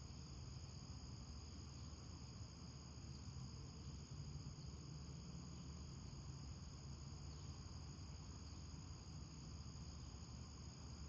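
Faint, steady chorus of crickets, with a low background rumble underneath.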